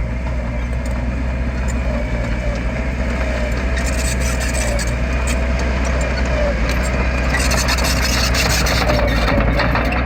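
Heavy earthmoving machine's diesel engine running steadily with a slightly wavering tone, with bursts of high-pitched clatter about four seconds in and again for the last few seconds.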